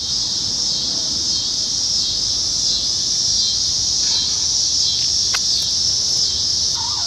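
Steady chorus of insects, a continuous high-pitched buzz, with a single sharp click about two-thirds of the way in.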